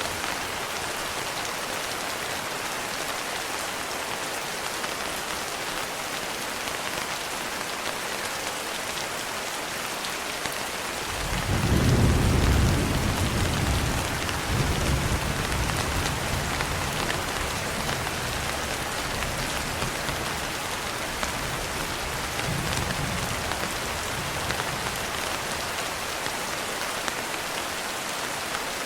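Steady heavy rain with a low roll of thunder that swells about eleven seconds in, peaks and fades over a few seconds, followed later by a fainter rumble.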